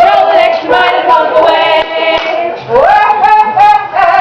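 Women's voices singing a sea shanty together, unaccompanied.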